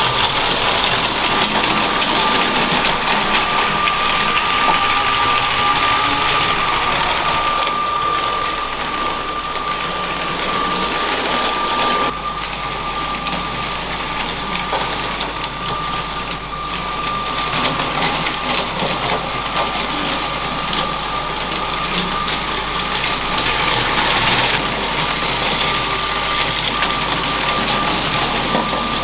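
LEGO train's small electric motor running with a steady high whine, over the rattling rush of plastic wheels on plastic track. A few sharp clicks come through along the way, and the sound drops back for a few seconds around the middle before rising again.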